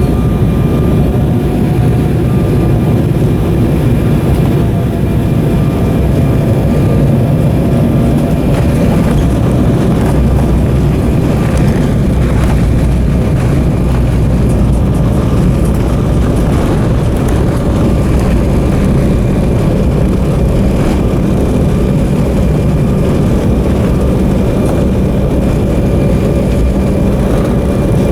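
Steady engine and airflow noise inside the cabin of an Embraer 190 airliner in flight, from its GE CF34 turbofans, with a faint engine tone that drifts slightly in pitch.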